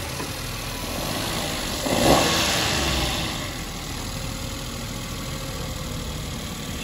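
Suzuki Alto engine idling, with one brief rev about two seconds in.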